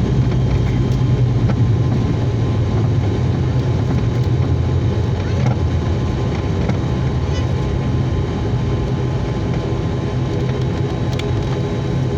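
ATR 72-600 turboprop engines and propellers running with a loud, steady low drone. A few faint steady higher tones sit above it.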